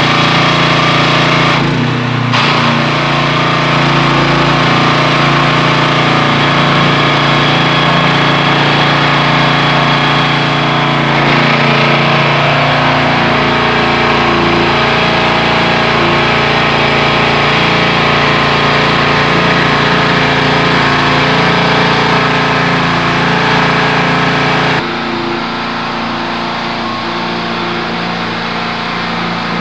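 Car-wash pressure washer running steadily, with a sudden drop in level about 25 seconds in.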